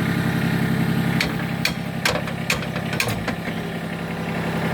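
Kubota tractor's diesel engine idling steadily. About half a dozen sharp knocks fall between one and three and a half seconds in: metal being tapped to work a three-point hitch pin into place while the hydraulics hold pressure on it.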